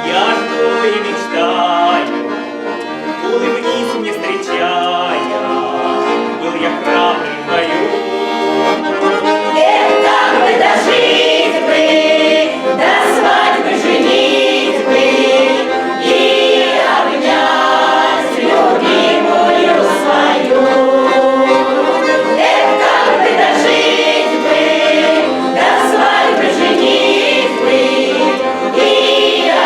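Russian folk song played on accordion with a group of voices singing, getting louder about ten seconds in.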